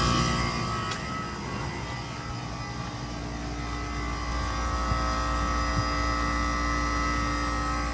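2000 Bard 3-ton wall-hung heat pump running in its defrost cycle: a steady mechanical hum with several held tones. It eases off about a second in and builds back up from about three seconds on.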